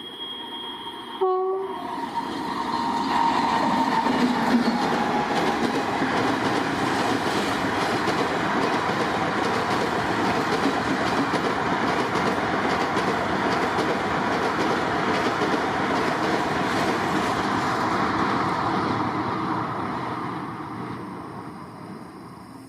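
Passenger train hauled by an electric locomotive passing at speed: a steady rumble with a rapid clatter of wheels over the rail joints, fading away over the last few seconds. A brief horn note sounds about a second in.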